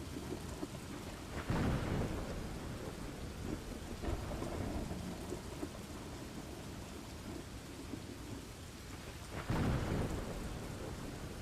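Steady rain with thunder rumbling twice, once about one and a half seconds in and again near the end.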